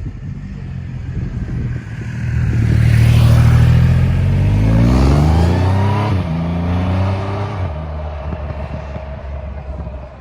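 Triumph Rocket 3 R's 2.5-litre three-cylinder engine and exhaust accelerating: the engine note climbs in pitch, drops back about six seconds in, and the sound swells to its loudest in the middle before fading.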